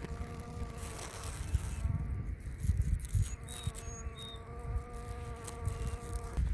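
A flying insect buzzing close by with a steady hum, cutting off near the end.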